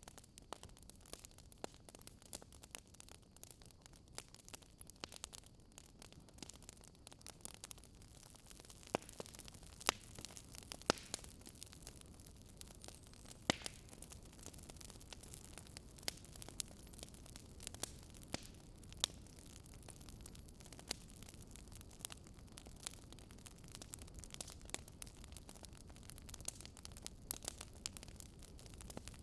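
Wood fire burning in a fireplace, crackling: irregular sharp pops and snaps, a few louder than the rest, over a low steady rush of flames.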